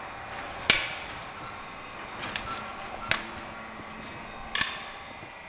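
Three sharp metallic clicks with a brief high ring, spaced a second and a half to two and a half seconds apart, over a faint steady hum.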